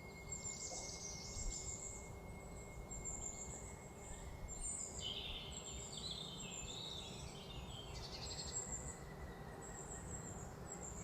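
Songbirds singing: many short, high chirps and trills over a steady low outdoor ambience.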